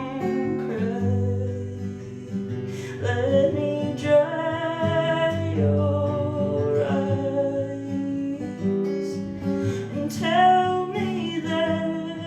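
Acoustic guitar strummed in a steady folk accompaniment, with a woman's voice singing long drawn-out notes over it in a few phrases.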